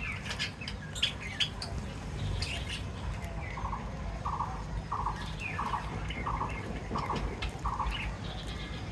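Caged pet birds chirping and squawking. From about three and a half seconds in, one bird repeats a short buzzy call about twice a second, seven times, over a steady low hum.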